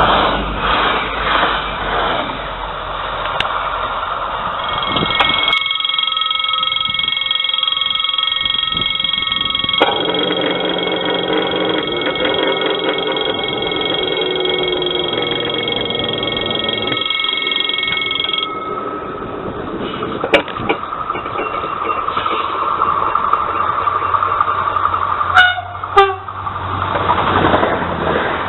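A train running, with long steady high-pitched whining tones for about thirteen seconds that stop abruptly, then rumbling noise with a few sharp clacks near the end.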